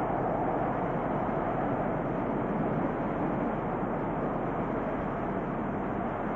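Freight train rolling past, a steady, even rumble of wagons on the rails.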